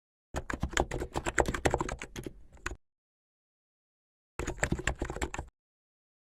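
Rapid, irregular tapping in two bursts: a longer run near the start and a shorter one about four seconds in.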